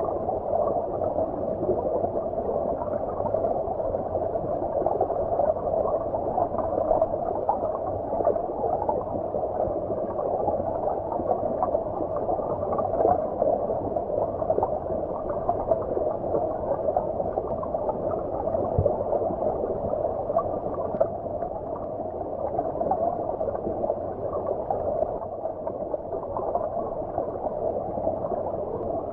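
Stream water flowing, heard from beneath the surface: a steady, muffled rush of water with no high sounds in it.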